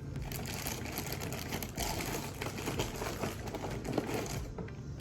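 Crinkling snack packaging, a pack of Scooby-Doo cinnamon graham cracker snacks being handled and torn open. The crackling goes on steadily and dies away near the end.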